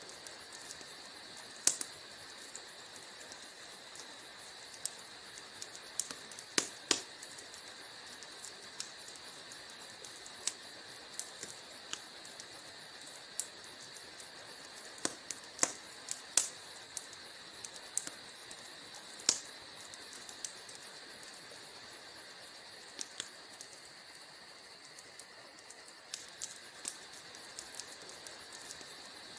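Wood fire crackling: irregular sharp pops and snaps over a steady soft hiss, a few louder pops standing out among many small ticks.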